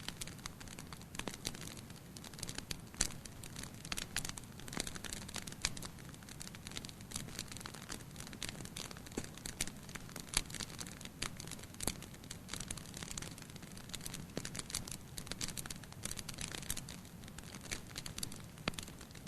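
Wood fire in a fireplace crackling, with irregular sharp pops and snaps over a soft steady rumble of the flames.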